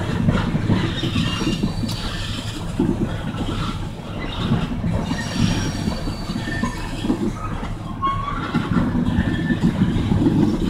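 Oil train's freight cars rolling past over a road grade crossing: a steady rumble and clatter of wheels on rail, with a few short wheel squeals about seven to nine seconds in.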